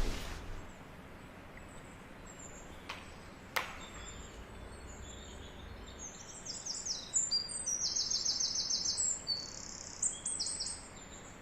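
Birds chirping and singing in quick, high trills, mostly in the second half. Two sharp clicks come about three seconds in.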